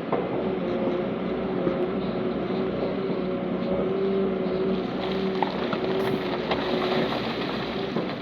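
Heavy diesel engine of an earthmoving machine running steadily under load, a constant drone with a few light clanks over it.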